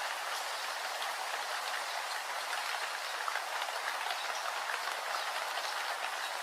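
Steady rain falling, a dense hiss with many small drop ticks scattered through it.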